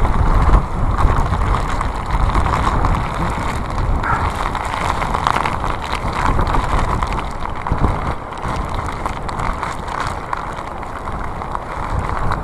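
Typhoon wind blasting a phone's microphone: a loud, gusting rush with heavy low rumble, easing a little near the end.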